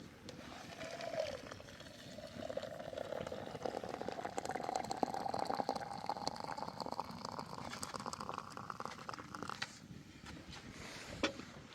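Liquid poured steadily into a vessel, its pitch rising as the vessel fills, stopping abruptly near the end; small clicks and crackles sound throughout.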